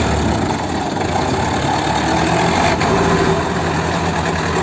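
Heavy diesel engine running steadily, a dense low drone with a faint click near the middle.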